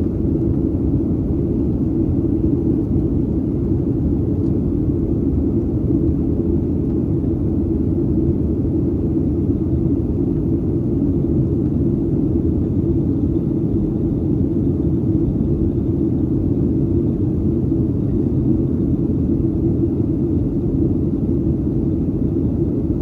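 Steady cabin rumble of a Boeing 737-800 in flight, its CFM56-7B engines and the airflow heard from inside the cabin.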